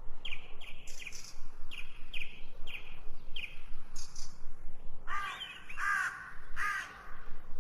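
Birds calling: a series of short, high chirps, then three louder, harsher calls near the end.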